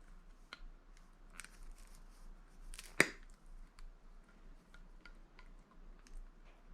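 Electric scrap motors being handled and checked: faint scattered clicks and scrapes of metal, with one sharp knock about three seconds in.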